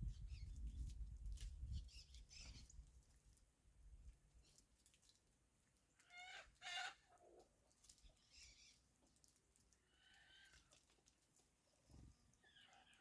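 Wild birds giving a few short, faint calls, the loudest about six to seven seconds in, with a low rumble during the first two seconds.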